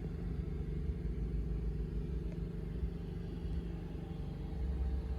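Steady low hum and rumble of a BMW X3 xDrive35i running while parked, heard from inside the cabin.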